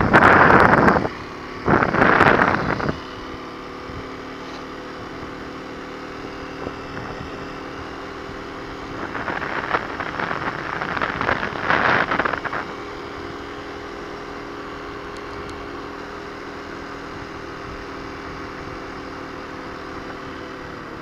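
Kawasaki KLX250's single-cylinder four-stroke engine running at a steady speed under way, with louder rushes of noise twice near the start and again for a few seconds around ten seconds in.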